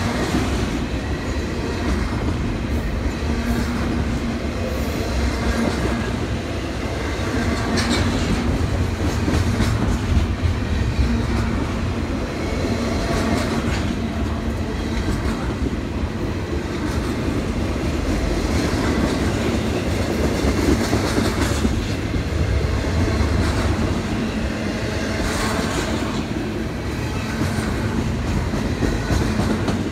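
Double-stack intermodal container freight train rolling past close by: a steady rumble of steel wheels on the rails, with occasional clicks of wheels over rail joints.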